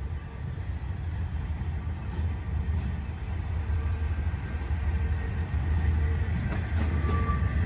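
Low rumble of a diesel train, growing steadily louder as it draws near.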